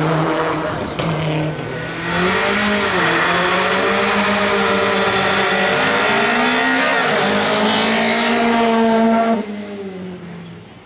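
Rally car engine revving hard at high revs, its pitch dipping and climbing again a couple of times, then dropping away suddenly about nine seconds in.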